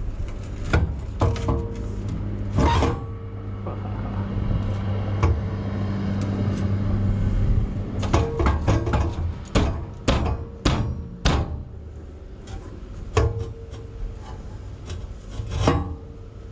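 Metal knocks, clanks and scraping as a freshly welded exhaust pipe is worked into place, over a steady low hum in the first half. The knocks come thickest from about halfway on.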